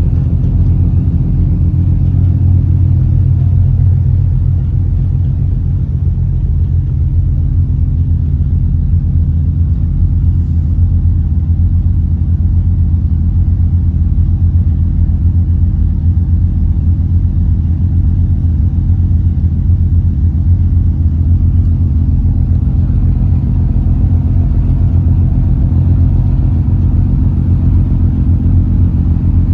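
An engine running steadily with a low, even drone that holds the same pitch throughout.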